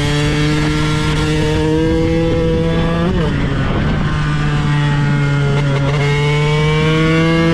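KTM 125 EXC supermoto's single-cylinder two-stroke engine pulling under load, its pitch climbing steadily. About three seconds in it briefly breaks and drops in pitch at a gear change, then climbs again.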